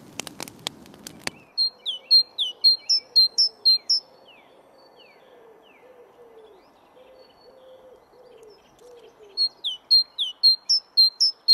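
A few sharp crackles of a wood fire, then a songbird singing: two bouts of quick, high repeated notes, many sliding downward, a few seconds apart.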